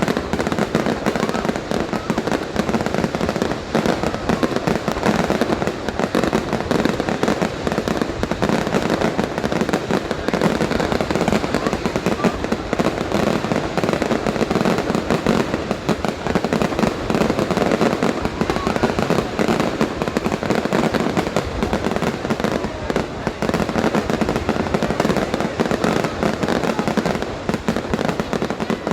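Fireworks going off in a dense, unbroken run of bangs and crackles.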